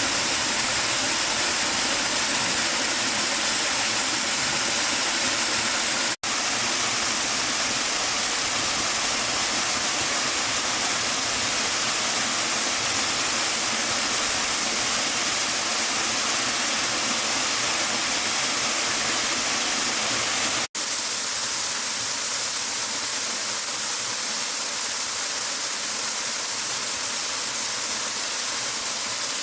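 Waterfall pouring, a loud, steady rush of falling water. It cuts out for an instant twice, about six seconds in and again about twenty-one seconds in.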